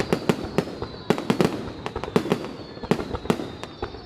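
Fireworks display going off: a rapid, irregular series of sharp bangs from bursting shells, coming in clusters about once a second.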